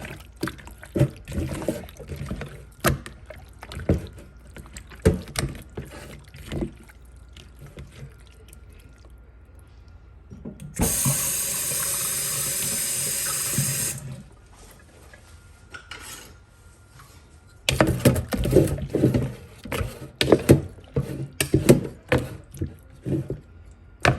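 Water running from a kitchen tap for about three seconds, midway through, the loudest sound here. Before and after it come scattered knocks and clatter from handling things on the counter.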